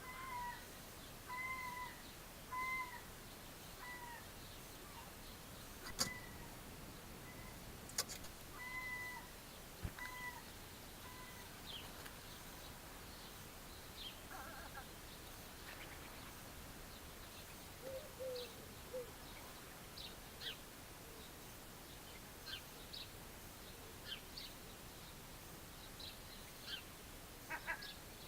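An animal calls in a series of short notes that rise and fall, about one a second for the first ten seconds. Two sharp clicks come in among them, and faint high bird chirps are scattered through the rest.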